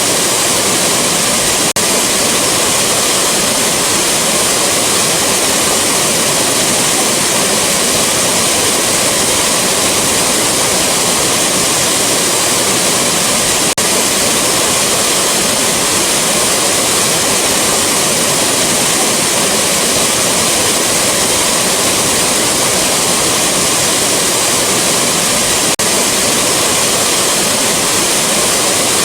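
Rushing waterfall: a loud, steady wash of falling water. A faint click comes about every twelve seconds, where the looped recording repeats.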